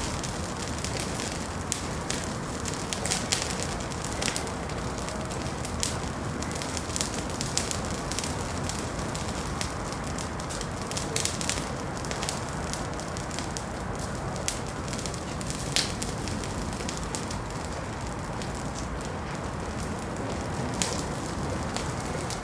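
Wood fire in a fireplace crackling: a steady low rush of flame with frequent sharp, irregular pops and snaps, a few louder than the rest.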